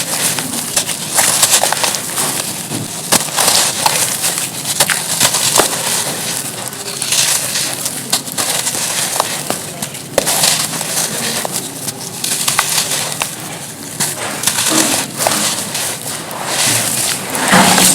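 Charcoal being crushed and crumbled, with irregular crunching and crackling and scattered sharp cracks coming in uneven clusters.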